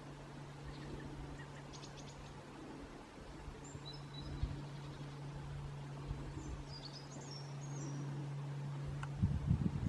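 A few faint, short, high bird calls over a steady low hum, with low rumbling bumps near the end.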